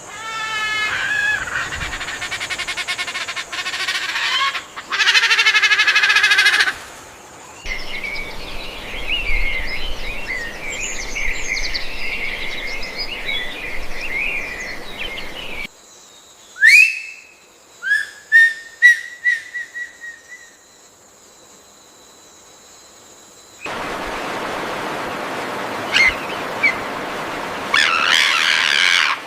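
Several different birds calling and singing in turn: rapid chirps and trills, then a busy chorus of twittering, then a few sharp rising whistled calls, then more chirping. Each stretch ends abruptly, the way spliced recordings do.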